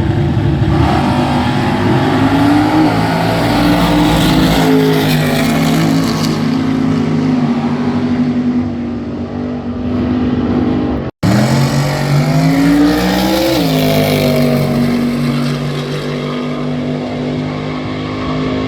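Drag racing car engines revving, pitch climbing and dropping repeatedly. The sound cuts out for an instant about eleven seconds in, then the revving picks up again and settles to a steadier run.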